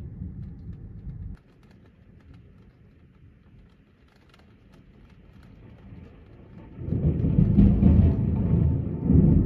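Thunder rumbling: a low rumble cuts off abruptly about a second and a half in, then a faint background, then a loud low rumble of thunder builds up from about six seconds in and keeps going.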